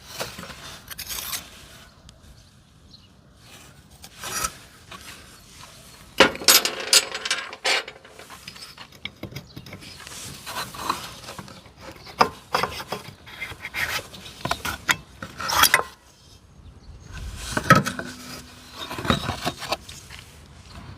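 Irregular scraping and rubbing of hand work on parts, broken by clicks and knocks, in uneven spells with short pauses.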